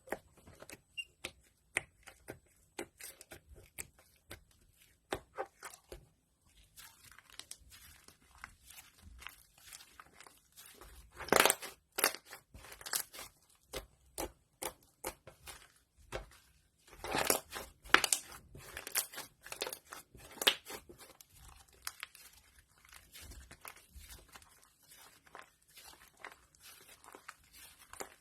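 Slime being worked and mixed by hand, giving irregular sticky clicks and crackling pops. It grows louder in two clusters, about eleven and seventeen seconds in.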